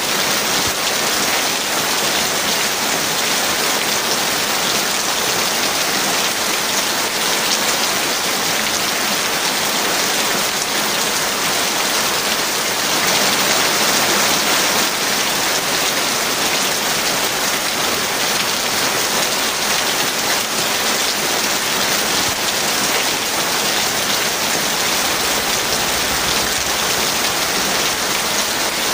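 Heavy rain falling steadily, a dense even hiss of drops that swells slightly about halfway through.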